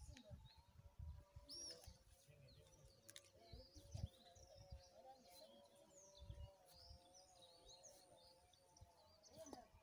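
Faint birds chirping in short high calls, over a low steady hum and a few soft low thumps.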